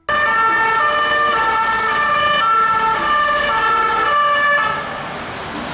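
Electronic siren sound from a toy police bus: loud two-tone notes stepping back and forth about every half second over a hiss, switching on abruptly.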